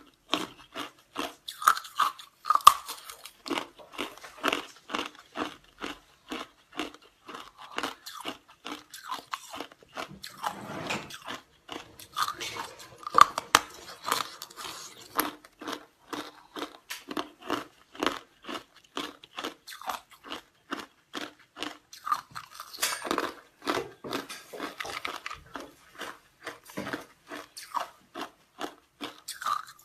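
Ice cubes being bitten and chewed close to the microphone: a long run of sharp, rhythmic crunches, about two to three a second.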